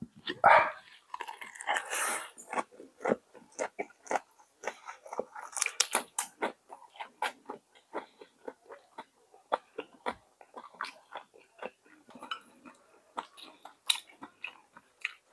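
Close-up mouth sounds of a person eating jjageuli (spicy Korean stew): chewing with many short, irregular wet clicks and smacks. A few louder noisy sounds come in the first two seconds.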